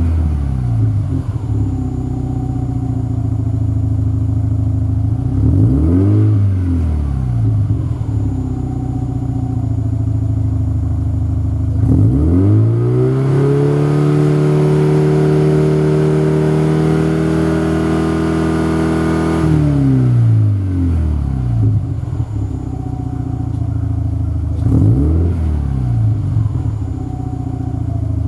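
Subaru WRX STI (VAB) turbocharged EJ20 flat-four exhaust through an STI Performance Muffler: idling with a quick rev blip about six seconds in, then a rev held steady for about seven seconds from twelve seconds in before dropping back to idle, and another short blip near the end.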